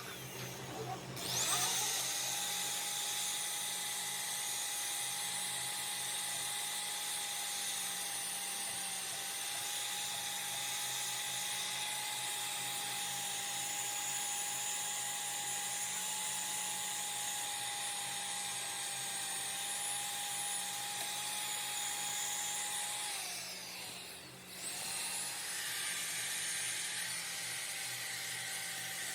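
Electric power tool running at high speed with a steady whine. About 23 seconds in it winds down with a falling pitch, then spins up again a second or so later.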